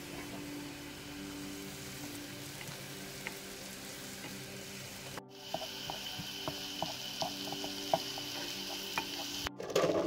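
Onion, green bell pepper and garlic sizzling steadily in a frying pan. From about halfway a spatula stirring them, with scattered light clicks and scrapes against the pan. Just before the end, a louder rush as cooked beans tumble into a metal colander.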